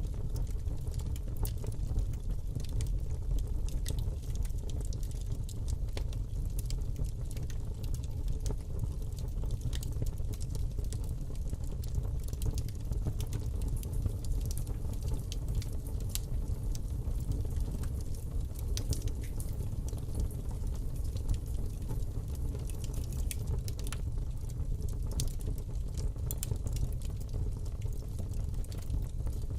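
Fire burning in a fireplace: a steady low rumble of flames with many small, sharp crackles and pops at irregular intervals.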